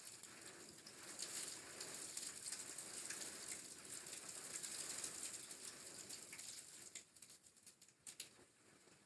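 Blizzard snow pattering against the house, a dense hiss of many tiny ticks; it thins to scattered ticks about seven seconds in.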